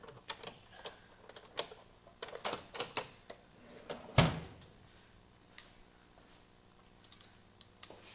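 Metal hand tools clicking and clinking against motorcycle parts, in irregular taps with one heavier knock about four seconds in.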